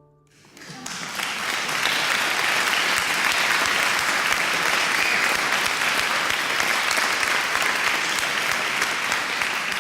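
Audience applauding. The clapping builds up within the first second and then holds steady.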